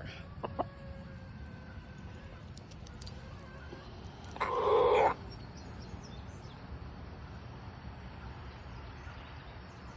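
Rooster giving one short, harsh call about halfway through, which the owner reads as him asking what's going on with his hens. Faint bird chirps can be heard in the quiet outdoor background.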